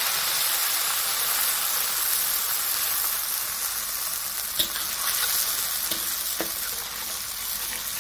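Blended spice paste sizzling steadily in hot oil in a wok. A few short clicks in the second half come from a spatula touching the wok.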